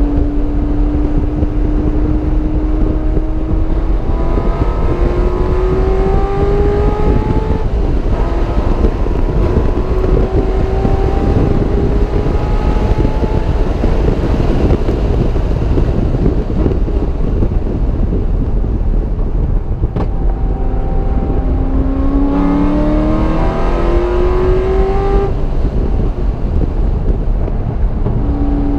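Car engine heard on board while lapping a race track, pulling hard through the gears: the engine note climbs and drops back at each upshift in several bursts of acceleration, with quieter stretches between them. Steady wind and road noise run underneath, and a single sharp click comes about twenty seconds in.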